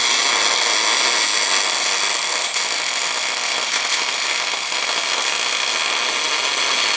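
MIG/MAG welding arc laying wire onto cast iron in an orbital welding run, a steady, even hiss with no breaks.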